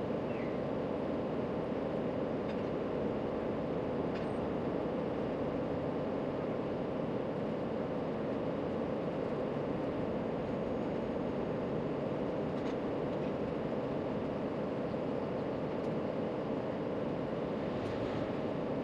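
Steady, even background noise, a constant rushing hum with no distinct events, with a few faint ticks.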